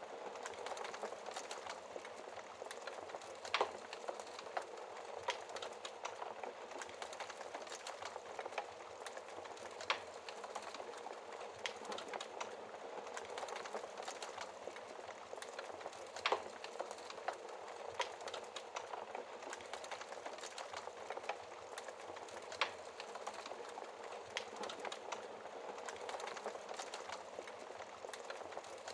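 Wood fire burning in a fireplace: a steady hiss with constant small crackles and a few louder sharp pops spaced several seconds apart.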